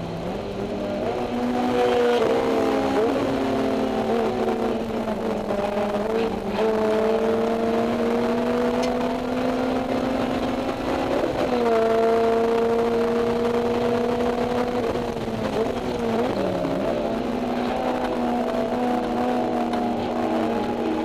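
Honda S2000 inline-four running at high revs through a Mugen header and EVS Tuning 70-SSP exhaust, heard from inside the cabin with the windows open. It pulls steadily up through the revs, with sharp drops in pitch at gear changes about a second in, around the middle, and again about three-quarters of the way through.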